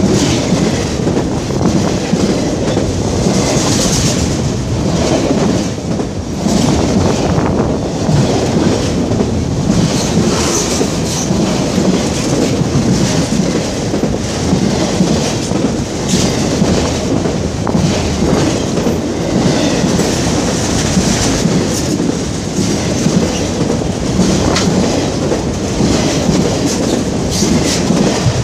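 Autorack freight cars rolling past at close range: a steady, loud rumble of steel wheels on rail, with a clickety-clack of wheelsets passing over rail joints.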